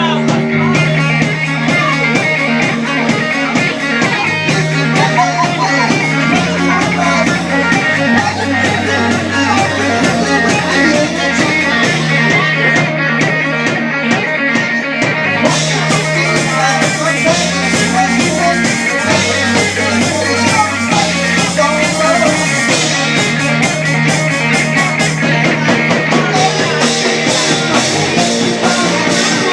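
Live rock power trio playing loudly: electric guitar, bass guitar and drum kit, with the bass stepping between sustained low notes in a repeating pattern.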